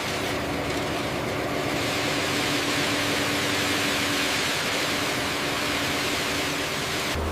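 A steady engine hum with one held low tone under a loud, even hiss. It starts and stops abruptly.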